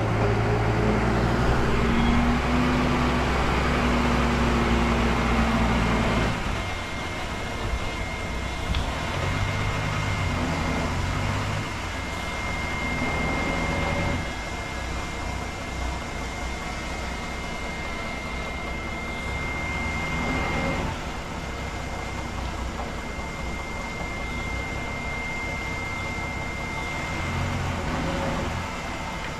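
Bulldozer's diesel engine working under load, loudest for the first six seconds, then dropping back and rising again in short swells. A thin steady whine runs through the second half.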